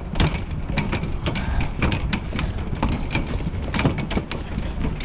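Footsteps of a person walking with a handheld camera, about two steps a second, over a steady low rumble of wind and city traffic.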